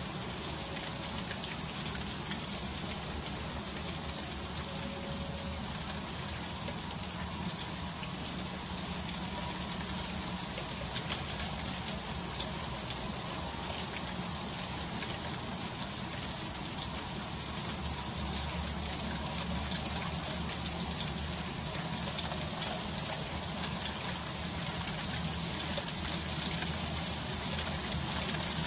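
Freezing rain falling in an ice storm: a steady hiss, high-pitched, dense with tiny ticks of drops striking icy surfaces, over a faint low rumble.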